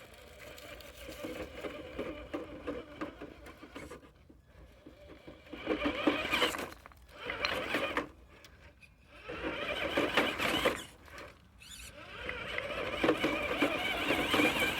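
Traxxas TRX-4 RC crawler's electric motor and gearing whining in stop-start bursts of throttle, the pitch wavering, under load on a steep climb.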